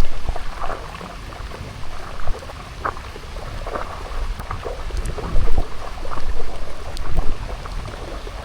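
Rain falling steadily, with a constant low rumble underneath and irregular short patters and splashes throughout.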